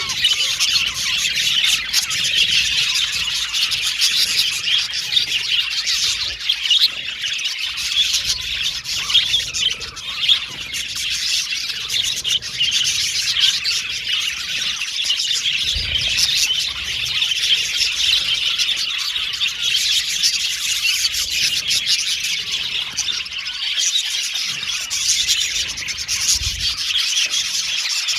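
A flock of budgerigars chirping and chattering continuously, many high calls overlapping.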